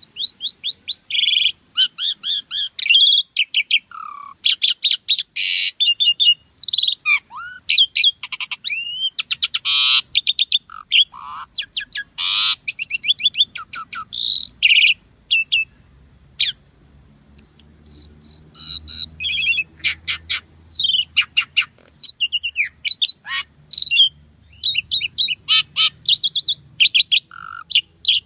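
Asian pied starling singing a long, varied song of rapid chattering, clicks and whistled notes, with a brief pause about halfway through.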